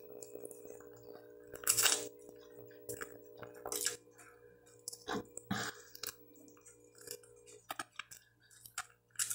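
Close-up sounds of a person biting and chewing roast chicken eaten by hand: irregular short mouth and chewing noises, loudest a little under two seconds in and again around five to six seconds in.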